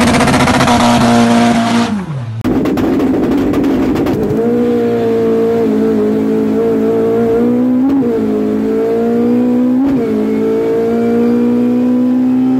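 Chevrolet Celta's GM 8-valve four-cylinder, bored out from 1.4 to 1.8 litres with individual throttle bodies and running on methanol, held at high revs with tyres squealing, then heard from inside the car at full throttle down the drag strip. The engine note climbs steadily, dropping sharply at each of two gear changes.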